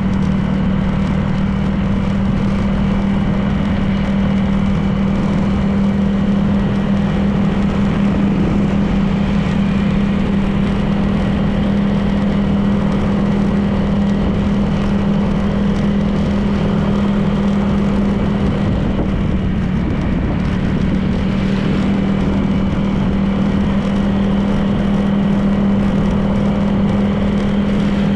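Honda PCX 160 scooter's single-cylinder engine running at a steady cruising pitch, with road and wind noise.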